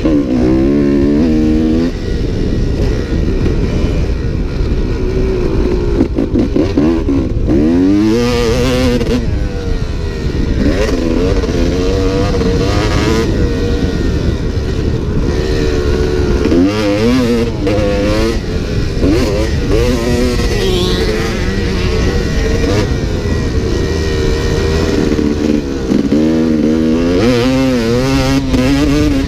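Dirt bike engine revving hard, its pitch climbing and dropping again and again as the rider works the throttle and gears.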